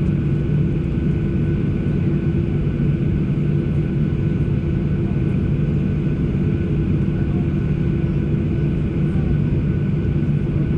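Steady cabin noise inside an ANA Boeing 737: an even hum and rush with a few steady tones. The level holds constant throughout.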